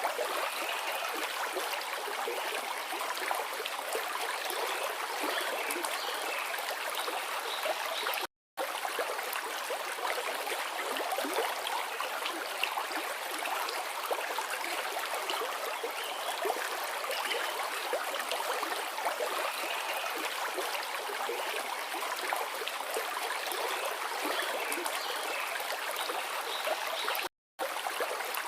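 Forest river rushing and splashing steadily over rocks, cut by two brief drops to silence, one about a third of the way in and one near the end.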